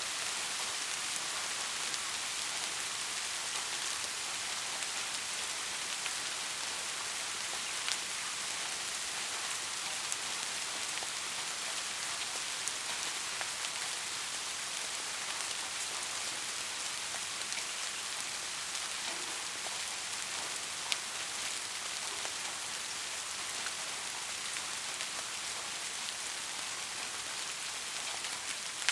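Steady rain falling, an even hiss with a few sharper single drop hits standing out now and then.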